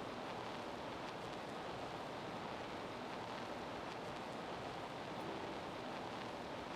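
Steady rushing background noise with no distinct event, typical of outdoor ambience.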